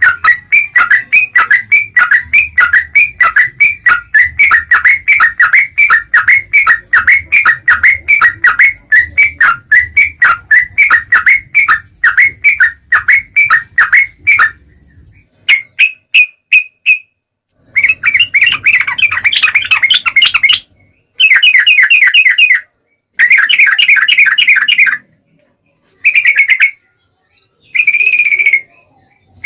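Yellow-vented bulbul (trucuk) calling: a fast run of sharp repeated notes, about four a second, for roughly the first half, then after a pause several short bursts of rapid chattering notes with silent gaps between them.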